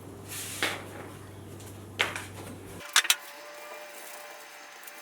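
A rag wiping down a surface with acetone: soft swishes, with sharp light knocks about two and three seconds in. A steady low hum under it cuts off suddenly near three seconds in.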